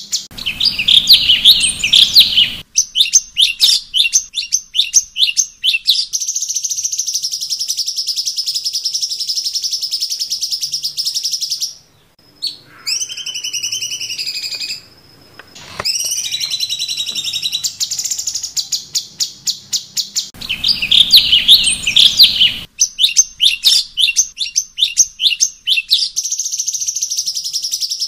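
Cucak cungkok songbird singing a varied song: fast runs of sharp repeated chirps, a long steady high buzzing trill, and a few sweeping whistled notes after a brief pause about halfway through. The same phrase sequence comes round again about two-thirds of the way in.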